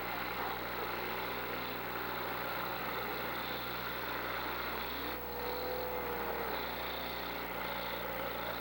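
Demolition derby cars' engines running together in a steady mixed din.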